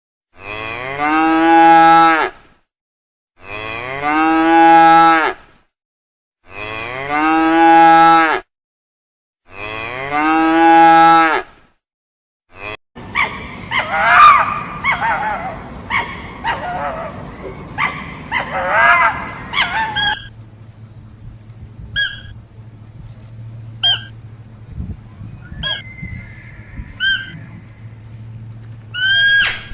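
Cow mooing four times, long drawn-out calls about three seconds apart, followed by a stretch of other animal calls and short sharp calls repeating about every two seconds over a low steady hum.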